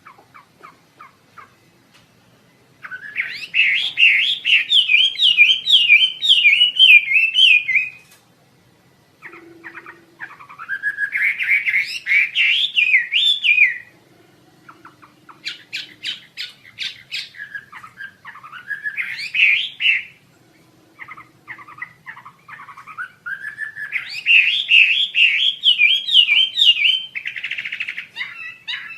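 Wambi Asia songbird singing: long, loud phrases of rapid, repeated up-and-down whistled notes, each phrase lasting several seconds and climbing in pitch as it starts, with short pauses and soft chips between phrases.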